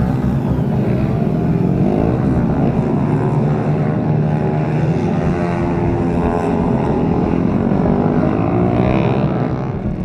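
Small-displacement racing motorcycle and scooter engines running hard on the course, a continuous drone whose pitch rises and falls slightly as the bikes go by.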